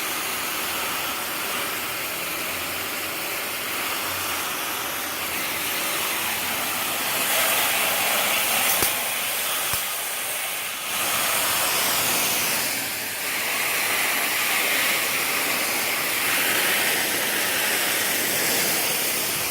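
Garden hose spraying water onto an air conditioner's outdoor condenser unit: a steady hissing spray that briefly drops off a little before eleven seconds in, then resumes.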